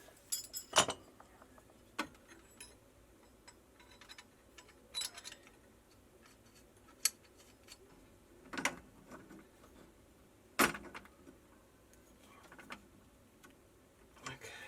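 Irregular metal clicks and clanks, about half a dozen, as channel-lock pliers grip and turn a water pressure regulator onto its threaded pipe fittings.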